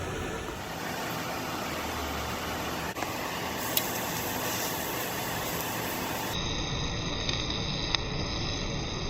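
Stick-welding arc laying straight nickel rod on cast iron, a steady hissing crackle with a few sharp pops. The sound changes abruptly about six seconds in.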